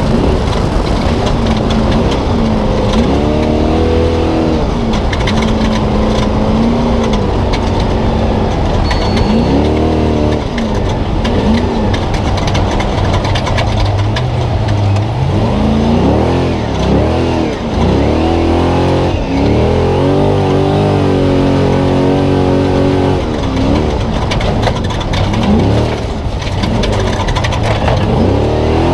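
A Spec Trophy Truck's V8 engine heard onboard at race pace. The revs rise and fall again and again as the throttle is worked, over a constant rumble and rattling clatter.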